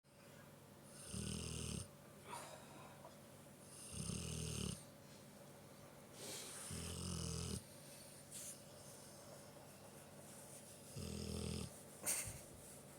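A big dog snoring in its sleep: four slow low snores, each lasting under a second, about three to four seconds apart. A brief sharp click comes near the end.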